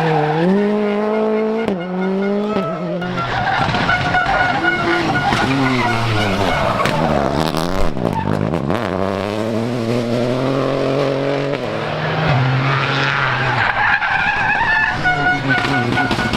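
Rally car engine revving hard, its pitch climbing and falling again and again as the car is driven through the stage, with a deep dip and quick climb about eight seconds in; tyres skid on the surface as it goes.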